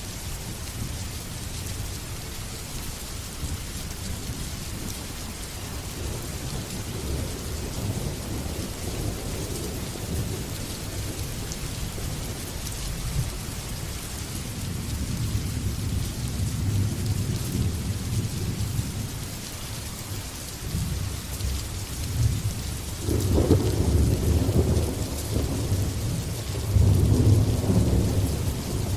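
Steady heavy rain with rolling thunder: low rumbles swell and fade in the first half, and a louder, longer peal builds from about three-quarters of the way in and continues to the end.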